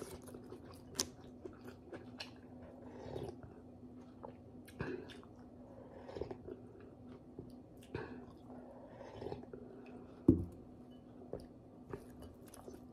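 Close-up chewing and mouth sounds of someone eating boiled pork hock with vegetables, with sips of broth from a bowl partway through. A single sharp knock about ten seconds in, over a faint steady hum.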